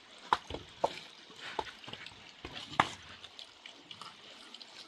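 A handful of sharp clicks and knocks at uneven intervals, the loudest near the start and about three seconds in, over a faint steady hiss.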